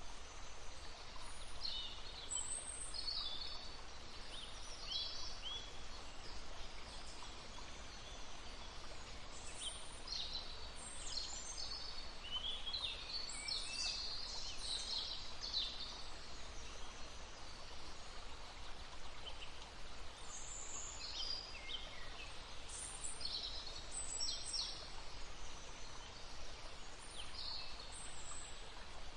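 Several songbirds singing and calling in short high chirps and trills, densest about halfway through and again later on, over the steady rush of a stream.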